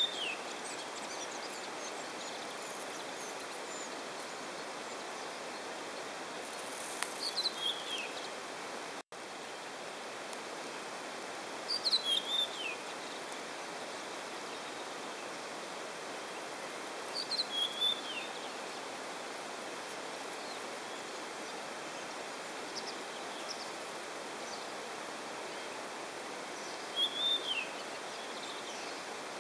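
A songbird sings the same short falling phrase four times, several seconds apart, over a steady outdoor hiss.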